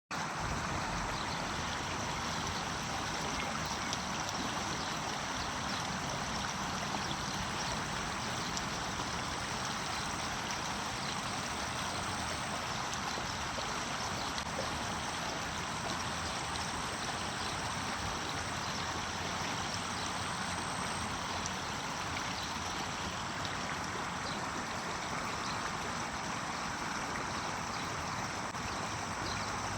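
Water running steadily in a small stream, a constant rushing and trickling.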